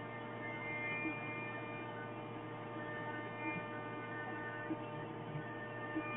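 CNC router running: a steady electric hum with several high, unchanging tones above it and a few faint ticks.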